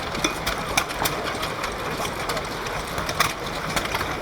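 Vintage stationary engines running, a steady mechanical clatter with sharp irregular clicks and knocks.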